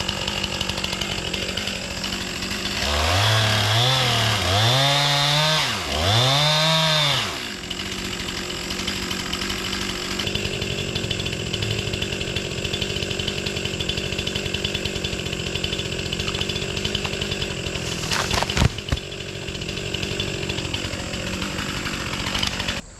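Stihl chainsaw running, revved up and down three times a few seconds in, then running steadily through the cut, and shut off near the end. A sharp thud comes from the cut log hitting the ground, a dull impact that the sawyer takes as a sign the wood is rotten.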